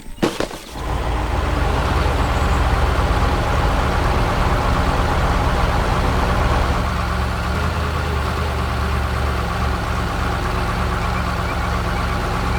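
A couple of sharp knocks, then a heavy vehicle engine starts running steadily about a second in.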